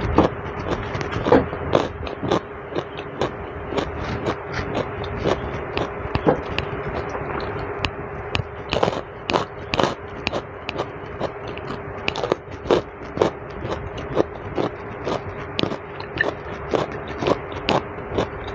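A person chewing and biting soft food, boiled carrot and roast duck: many short, irregular wet mouth clicks, over a steady hum.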